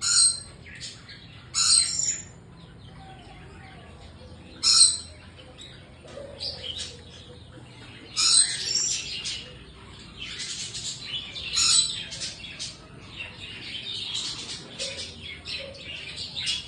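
Small birds in an aviary chirping and calling: a few loud, high calls in the first five seconds, then busier, more continuous chirping through the second half.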